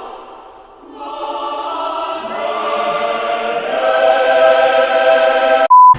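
A choir singing held notes in harmony, swelling louder toward the end, cut off by a short steady electronic beep.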